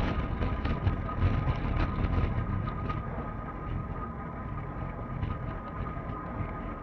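Steady low rumbling noise with scattered knocks and rattles, busier in the first half and calmer after about three seconds, under a faint steady high whine.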